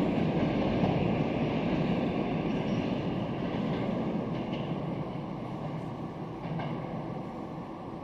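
Subway train running, its rumble fading steadily as it moves away.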